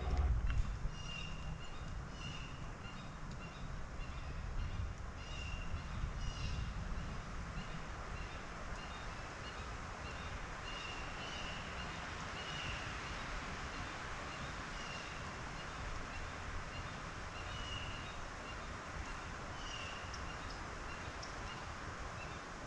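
Steady wind rumble on the microphone with choppy water noise, and a loud low gust buffet about half a second in. A bird calls over it again and again in short high notes, at first about once or twice a second, then more sparsely.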